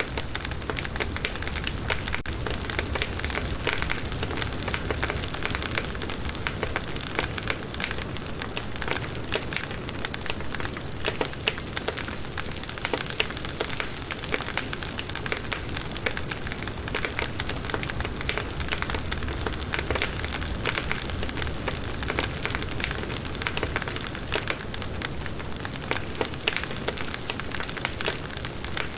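Firewood burning in a campfire, with dense, steady crackling and many small pops.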